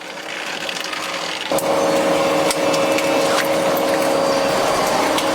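Factory machinery running: a noisy whirr with a steady two-note hum and scattered sharp clicks, building up over the first second and a half and then holding steady.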